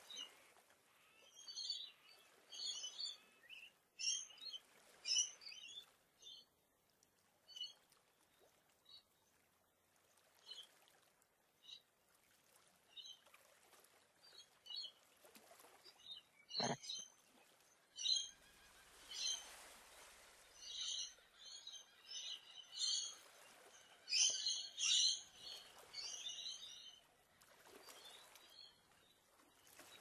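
Several wild birds chirping and twittering in short high calls, busiest in the first few seconds and again through the second half, with quieter scattered calls between. One sharp click a little past halfway.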